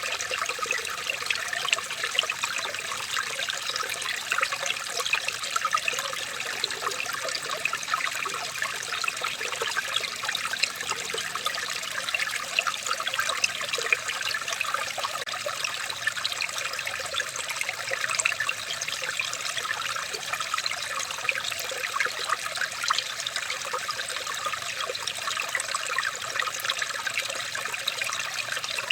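Running water trickling and splashing steadily, with many small splashes.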